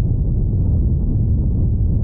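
Steady, loud low rumbling noise with no distinct bangs or changes, most of it deep in the bass.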